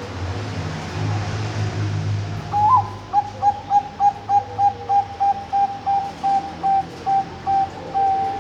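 Zebra dove (Bangkok-type perkutut) singing: a rising opening note, then a run of short coos at one pitch, about three a second, ending on a longer held note. A low rumble lies under the first couple of seconds before the song starts.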